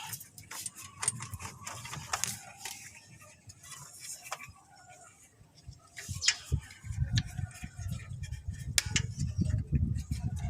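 Scattered small metallic clicks and taps of tools and parts being handled, quieter for a few seconds in the middle, with a low rumbling handling noise from about six seconds in.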